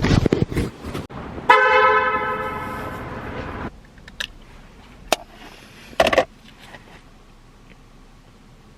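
Brief rustling, then a loud horn-like pitched tone that starts suddenly, fades over about two seconds and cuts off. A few sharp clicks follow.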